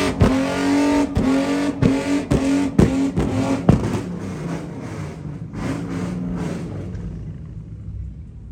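Car engine revved up and held at a steady high rpm with sharp exhaust pops every half second to a second, typical of a two-step launch limiter. It lets off about four seconds in and dies down, with a few fainter pops.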